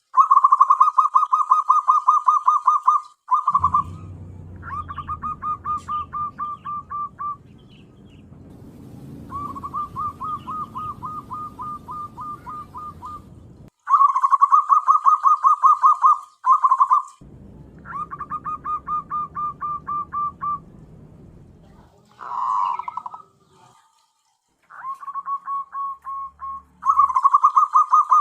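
Zebra dove (perkutut) calls: a series of rapid trilled runs of short cooing pulses, each run lasting a few seconds. Some runs are loud and clean; others are quieter over a low background rumble.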